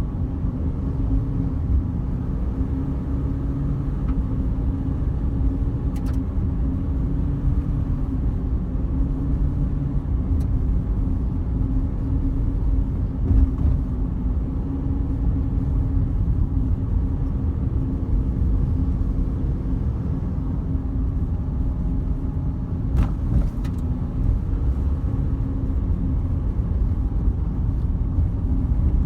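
A car driving along a forest road: the engine runs with a steady hum over low road rumble, with a few brief knocks, the strongest about 23 seconds in.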